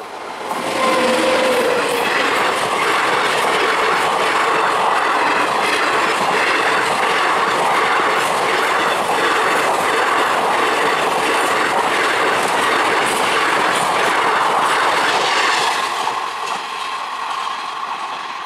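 A passenger train passing close by: a loud, steady rumble with a regular clickety-clack of wheels over rail joints, about two clicks a second. It builds up about a second in and starts to fade near the end.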